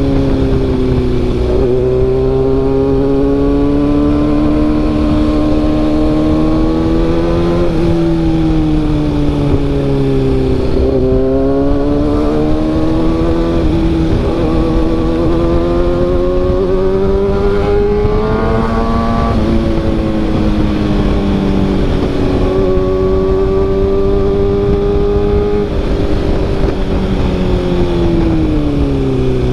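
Kawasaki ZX-6R inline-four engine running through an SC-Project CRT carbon-sleeve exhaust while being ridden. The exhaust note climbs slowly in pitch and then falls off, four or five times over.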